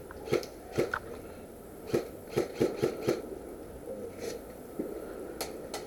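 Irregular sharp pops and snaps of airsoft guns being fired, about nine shots in short clusters.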